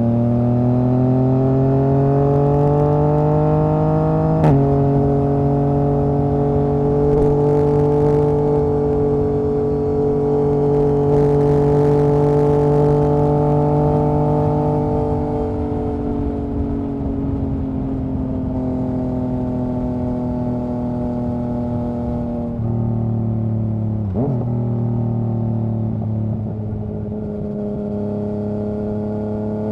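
Yamaha MT-09's inline three-cylinder engine and exhaust pulling under load. The revs climb, then drop sharply with a click about four seconds in as it shifts up, and climb slowly again. Later the revs sag off the throttle, and two sharp steps up in pitch near the end sound like downshifts.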